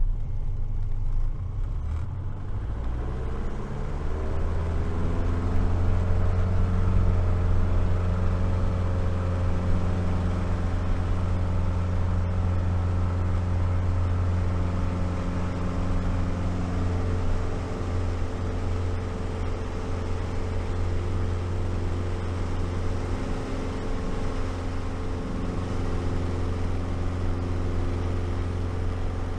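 Light aircraft's piston engine and propeller droning steadily in flight. The pitch rises a few seconds in, as the power setting changes, then holds level.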